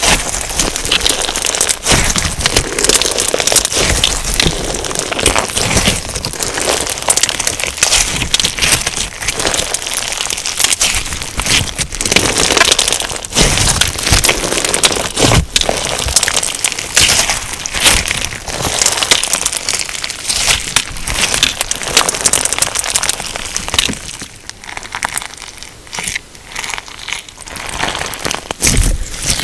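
Crunchy slime filled with sugar beads being squeezed and pressed by hand, giving a dense run of crackles and tiny pops. It thins out to a quieter, sparser crackling near the end.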